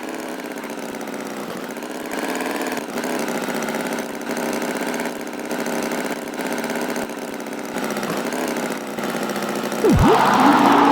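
Cartoon tractor engine running steadily, its loudness pulsing up and down about once a second. Near the end a quick swooping sound, dropping and rising again in pitch, is followed by a louder burst.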